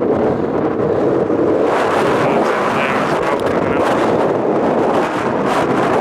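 Wind blowing hard across the microphone: a loud, steady rushing noise.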